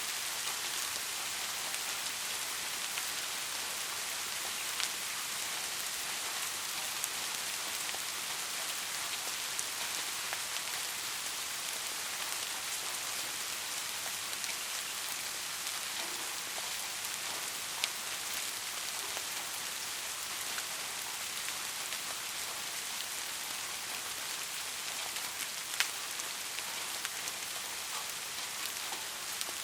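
Steady rain falling on a surface, a continuous hiss with scattered individual drops ticking, a few sharper ones standing out.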